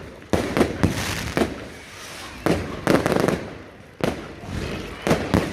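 Fireworks going off: volleys of sharp bangs and crackles in quick clusters, one after another, each trailing off in an echo.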